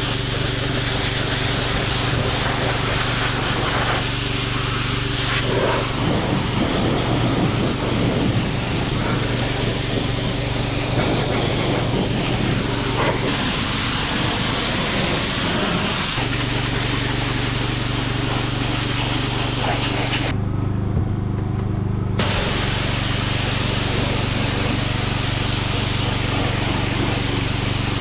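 Gas pressure washer running steadily, its small engine's hum under the hiss of the water jet spraying.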